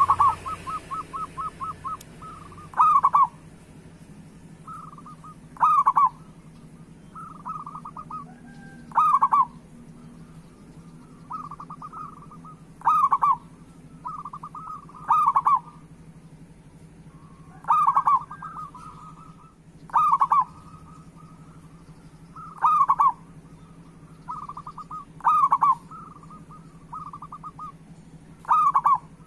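Zebra doves (perkutut) cooing in full song: soft rolling coo notes broken every two to three seconds by a loud coo, about ten times over, with a quick run of short notes at the start. A faint steady hum lies underneath.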